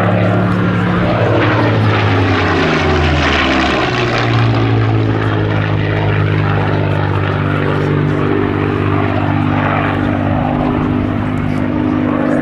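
Supermarine Spitfire's piston engine running hard in a display fly-by, with a drone whose pitch drops about three seconds in as it passes, then runs steady.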